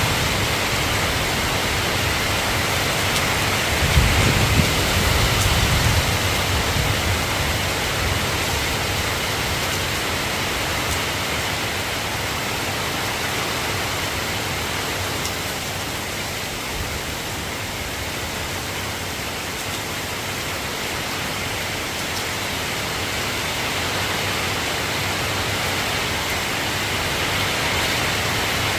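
Steady rain falling, an even hiss, with a brief low rumble about four seconds in.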